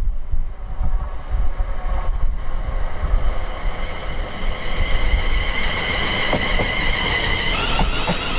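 Wind buffeting the microphone, with the high ringing tones of an approaching train on the main line growing louder and stepping up in pitch near the end.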